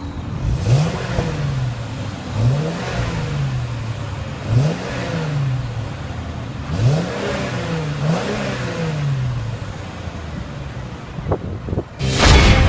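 Mercedes-Benz E350's V6 engine being revved at a standstill: five blips of the throttle, each rising quickly and falling back slowly to idle. Loud guitar music comes in near the end.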